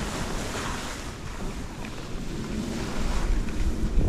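Wind rushing over the camera microphone together with the steady hiss of skis sliding over snow on a downhill run, with low buffeting that grows stronger about three seconds in.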